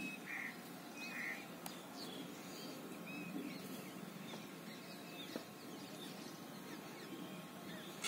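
Small birds chirping here and there over a faint steady outdoor background, with two short hissy sounds in the first second and a half.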